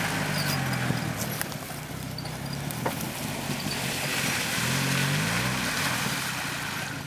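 A 4x4's engine working through mud, its pitch rising and falling as the throttle is worked, with a clear rev-up about five seconds in. A few sharp knocks sound over it.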